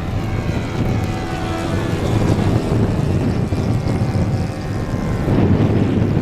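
A radio-controlled seaplane's small engine whining in flight, its pitch drifting, over heavy wind noise on the microphone.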